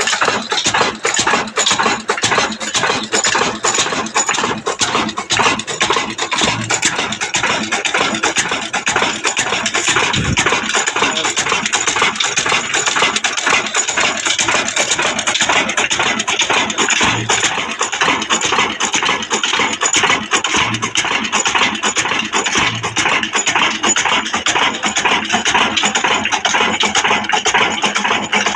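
Old heavy 22 hp diesel engine running steadily, with a fast, even clatter of knocks.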